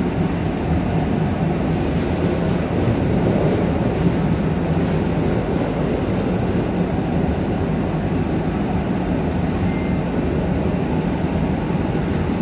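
Interior running noise of an EN57AKM electric multiple unit in motion: a steady low rumble of wheels on the track and running gear, heard inside the carriage by the door.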